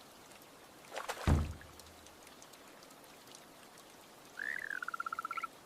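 Steady rain ambience, with a short, loud splashing thump a little over a second in. Near the end, a small animal's chirping call rises, dips and breaks into a fast trill.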